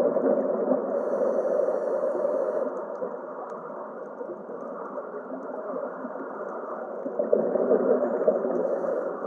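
Steady muffled rushing noise of an underwater ambience, quieter in the middle and swelling again near the end.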